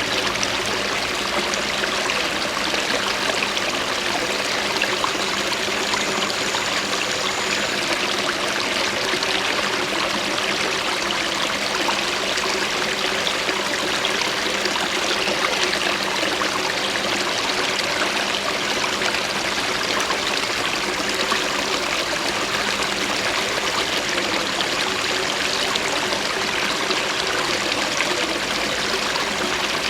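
Running water of a small stream, a steady, unbroken rushing.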